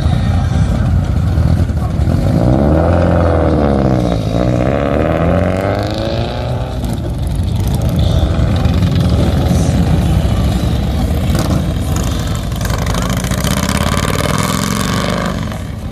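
Cars driving past with their engines running. About three seconds in, one engine's note drops and then climbs again as the car pulls away under throttle.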